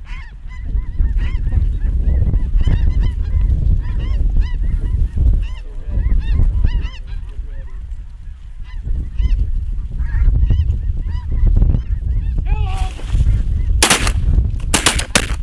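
A large flock of snow geese calling, many high yelping calls overlapping, over a low wind rumble. Near the end comes a rapid volley of about four shotgun blasts within a second and a half as the hunters open fire on the incoming flock.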